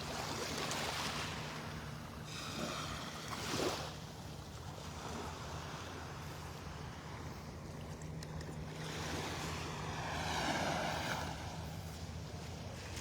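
Small Gulf waves washing onto a sandy beach, rising and falling in swells that are loudest at the start, briefly about three and a half seconds in, and again around ten seconds in.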